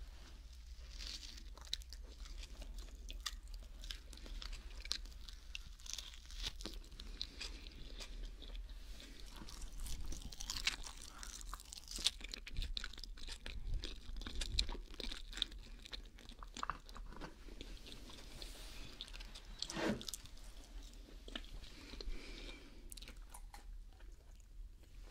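Close-up chewing of a mac and cheese sandwich: soft bread and filling mashed between the teeth with moist mouth clicks and light crunching, heard up close on a binaural microphone.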